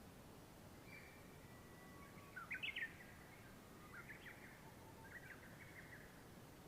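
Faint birdsong over a quiet background hiss: a few short chirping phrases, the loudest about two and a half seconds in and two softer ones later.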